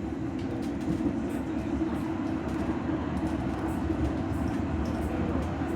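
Tram running on its rails, heard from inside the passenger car: a steady low rumble of wheels and motors with faint scattered ticks.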